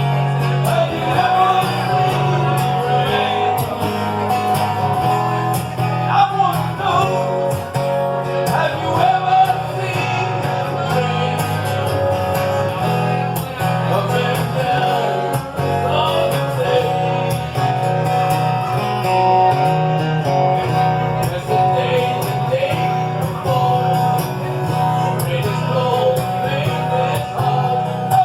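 A song with a singer over guitar accompaniment, with a steady bass line underneath.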